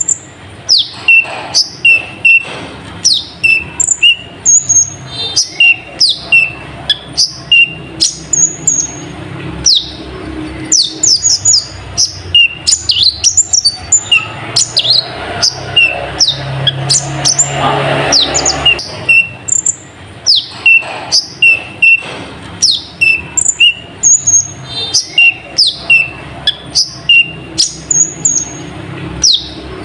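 Kolibri ninja sunbird (konin) singing a long, busy song of short, high chirps and quick downward-sliding notes, several a second, its song filled with imitated notes of other birds.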